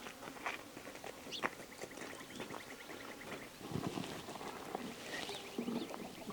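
Outdoor bird and farm-animal calls: a rapid, even trill of high ticks lasting a second and a half, with short chirps and a few brief low calls near the end.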